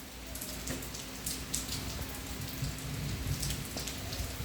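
Heavy rain falling steadily, with scattered sharper drop hits, over a faint steady hum.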